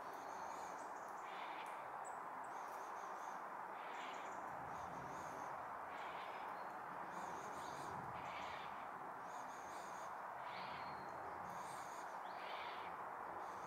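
A bird giving short chirps roughly once a second over a steady background hum.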